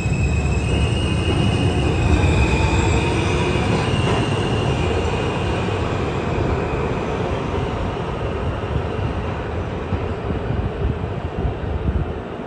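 New York City subway train running on the rails with a dense, steady rumble. Several high whining tones sound over the first few seconds and then fade out, and the overall noise eases off gradually toward the end.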